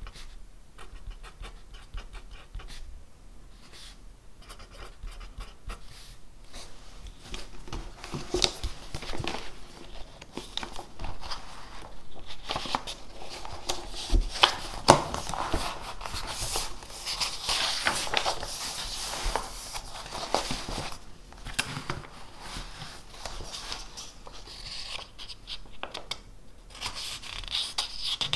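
Pen writing on paper: irregular scratching strokes, busier in the middle stretch, with a few sharp taps of the pen or hand on the desk.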